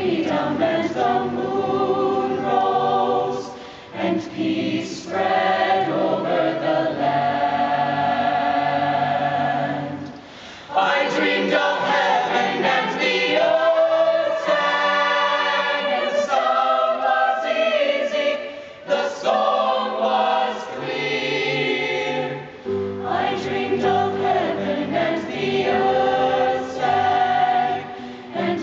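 Youth choir singing in harmony, in long phrases with short breaks between them.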